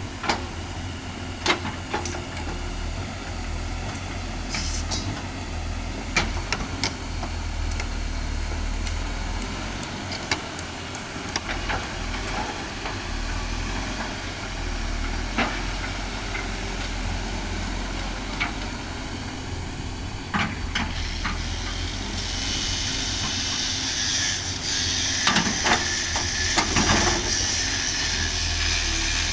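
Backhoe's diesel engine running steadily, with scattered knocks and clanks. About two-thirds of the way through, a high hiss joins it.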